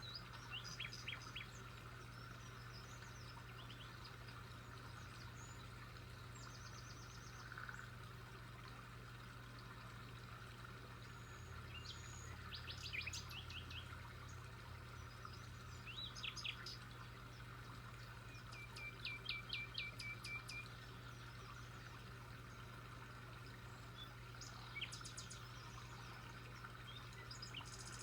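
Small birds chirping now and then in short, quick trills of high notes, the longest a rapid run of repeated notes lasting about two seconds, over a faint steady low hum.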